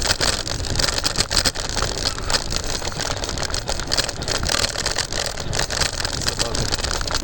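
Scooter being ridden: wheels rolling over rough pavement with a constant dense rattle and clatter of many small knocks.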